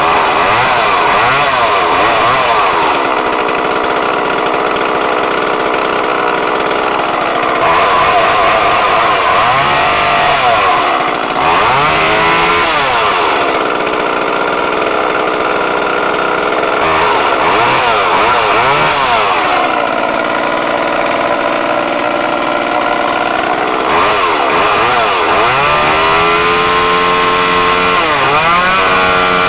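Homelite XL two-stroke chainsaw running, revved up and down over and over, its pitch rising and falling every few seconds. It is running again on a replacement spark plug fitted after the old plug blew out.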